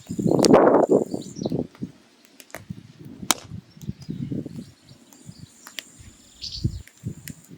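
Firewood burning in a mangal, crackling irregularly with sharp pops, one loud crack a little past the middle, and uneven surges of noise from the fire. A faint steady high tone comes and goes behind it.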